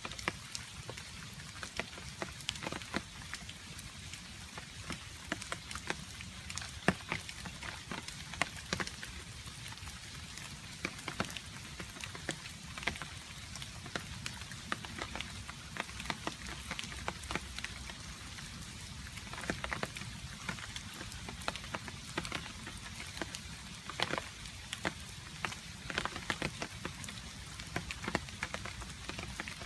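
Rain falling with water drops dripping: a steady patter of rain under frequent sharp, irregular drip taps.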